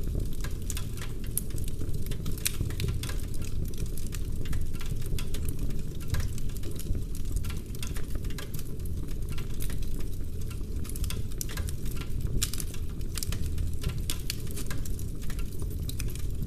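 Wood fire burning in a fireplace: dense, irregular crackling and sharp pops from the burning logs over a steady low rumble.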